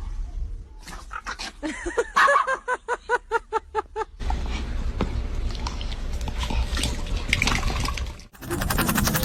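An animal's quick run of short, pitched cries, about five a second, followed by a steady rushing noise; music comes in near the end.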